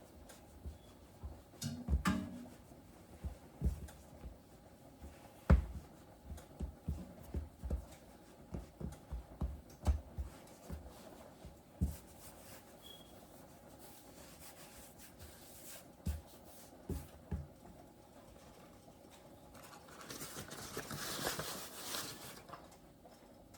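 Dumpling dough being handled on a floured kitchen counter: a run of irregular soft thumps and knocks, then quieter handling and a short rustle near the end.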